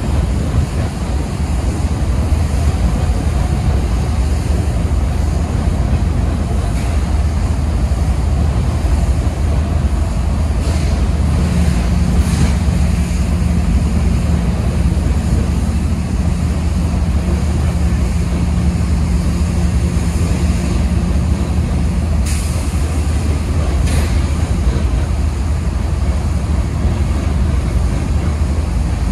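Freight train of loaded hopper cars rolling past: a steady low rumble of steel wheels on rail, with a steady low hum in the middle and a few sharp clanks, two of them near the end.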